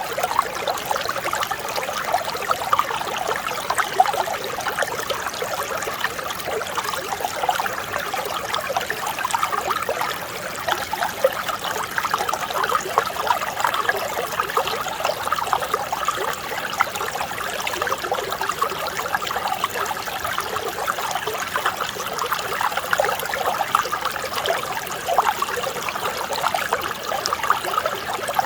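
Mountain stream flowing over rocks: a steady babble and trickle of running water, busiest in the middle pitches, with no breaks.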